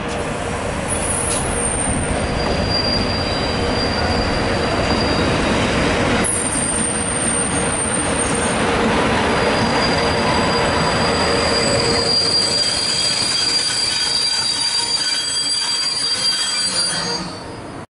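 Electric locomotive hauling a freight train of flat wagons past at close range: a steady rumble of wheels on rails, with high-pitched wheel squeal that comes and goes. It cuts off suddenly just before the end.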